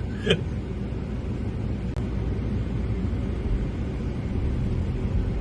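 Steady low rumble of a car driving, with no change in engine speed.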